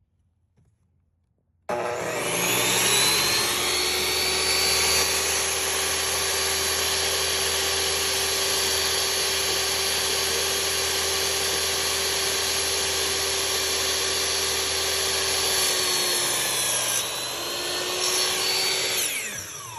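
Metabo 10-inch miter saw switched on about two seconds in, its motor and blade whining steadily at full speed. Near the end the pitch sags as the blade bites into a wooden board. The saw then winds down with a falling whine.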